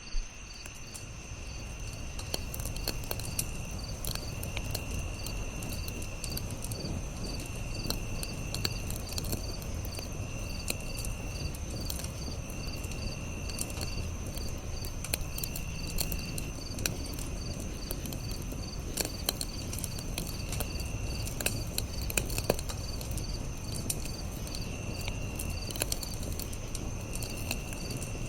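Campfire crackling, with irregular sharp pops over a low steady rumble, under a chorus of night insects. The insects keep up a steady high trill and a fast pulsing chirp, and a lower trill comes in stretches of about a second every few seconds, pausing for a while past the middle.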